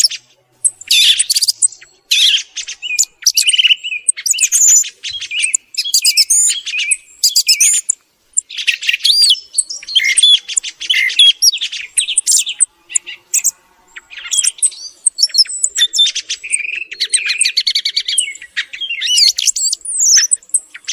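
Thrush singing: a rapid run of varied whistled and chattering phrases, separated by short pauses of under a second.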